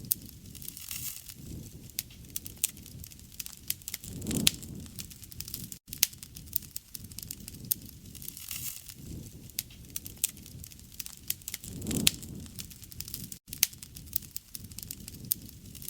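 Wood fire burning, with frequent sharp crackles and pops over a low rumble of flame that swells twice. Two momentary cuts in the sound break it briefly.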